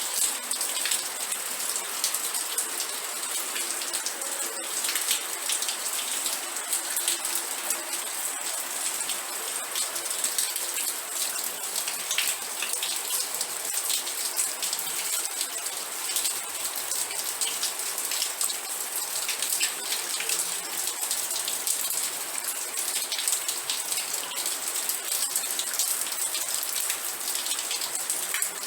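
Steady rain with dense, crisp drop ticks on a hard surface, hiss-heavy and even in level.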